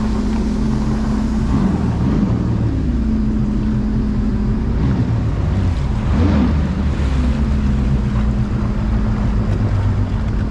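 Jet ski engine running steadily while under way on the water, its pitch dipping and recovering a few times as the throttle changes.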